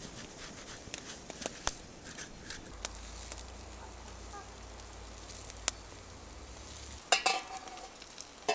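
Faint crackling with scattered sharp pops from a wood campfire with food cooking over it, with a low rumble through the middle and a short flurry of louder pops near the end.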